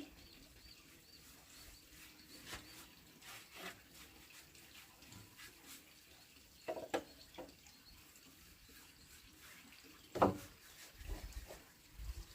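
Scattered light clicks and knocks, with two louder knocks about seven and ten seconds in, over a faint background.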